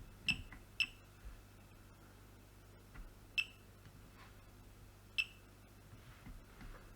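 Multimeter giving four short beeps as its probes are touched across the pins of a router power board's bridge rectifier. They are only brief chirps with no held tone, and the rectifier shows no short.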